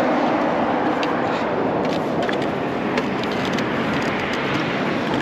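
Steady rush of city street traffic heard while riding a bicycle, with a few faint clicks.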